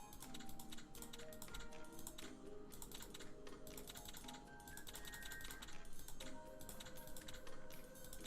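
Rapid, irregular clicking over quiet background music.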